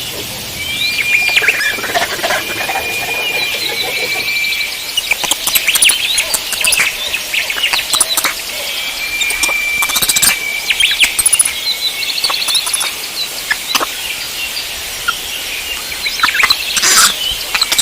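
Several birds singing and calling together: repeated long, even whistled notes, fast trills and many short chirps, with a few sharp clicks among them.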